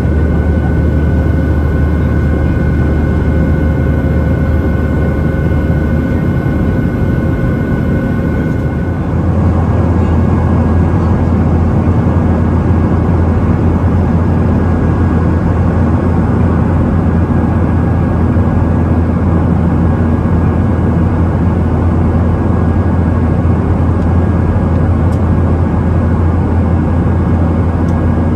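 Boeing 737-700 cabin noise from a seat near the wing: the steady, loud drone of its CFM56-7B turbofan engines and the rush of air, with thin whining tones over it. About nine seconds in, the engine note changes: a brief dip, then a fuller low drone with the whine at a slightly different pitch.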